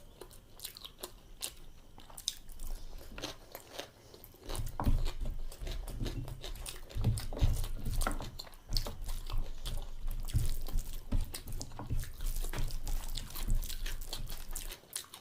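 A person chewing a mouthful of food close to the microphone, with many small wet mouth clicks. Heavier low chewing thuds start about four and a half seconds in and run until just before the end.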